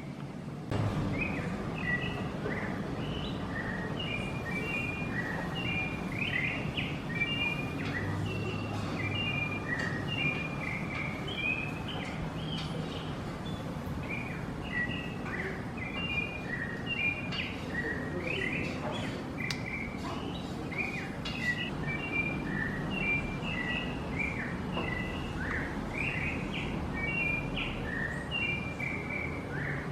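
Chonte songbird singing: a continuous run of short, quick, chirping notes, over a low steady background rumble.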